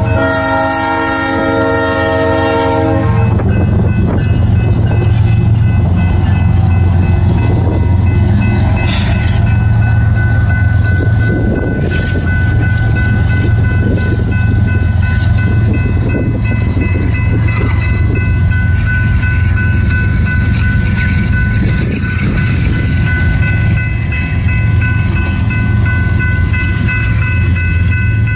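Kansas City Southern locomotive horn sounding a many-note chord, cutting off about three seconds in, then the steady rumble and rolling clatter of diesel locomotives and a tanker train's cars passing. A steady high ringing runs throughout, typical of a grade-crossing bell.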